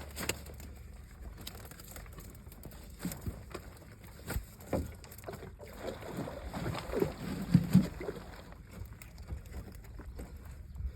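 Irregular knocks and thumps in a small boat over a steady low rumble, loudest in a cluster between about six and eight seconds in.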